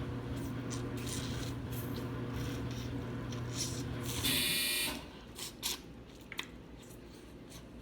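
A steady electrical hum runs for about four seconds, then stops as a short, harsh electronic buzzer-beep sounds. A few faint clicks follow.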